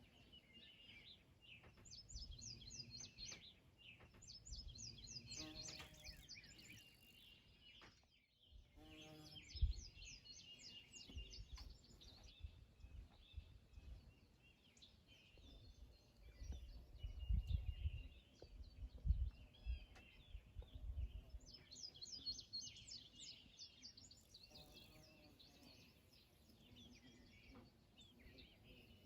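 Songbirds singing outdoors: repeated quick trills and chirps, several in a row, with a pause between phrases. Faint low rumbles and a couple of knocks come and go beneath the song, loudest a little past the middle.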